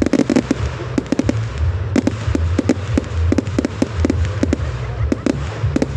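Fireworks going off in an irregular run of sharp bangs and cracks, thickest at the start, over a low rumble.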